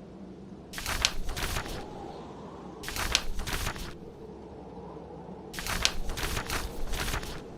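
Pages of a paper book being turned, three times, each a papery rustle of about a second, over a steady low background of blizzard wind and a fireplace.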